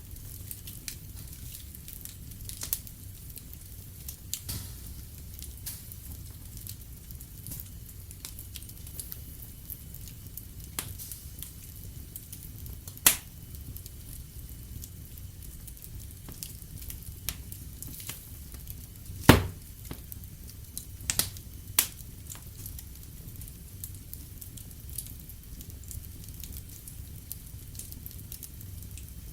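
Wood fire in a fireplace crackling: a steady low rumble with scattered small clicks and a few sharper pops, the loudest about two-thirds of the way through.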